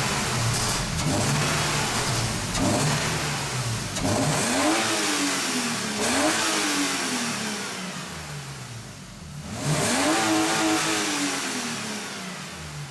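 BMW E36 328i's 2.8-litre straight-six free-revved, which the video uses to compare its stock and sport air filters. The first half has a string of quick throttle blips, each dropping back toward idle. About three-quarters in comes one longer rev, which dies away toward the end.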